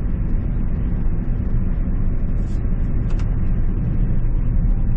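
Steady low rumble of a Scania truck driving, its engine and road noise heard inside the cab.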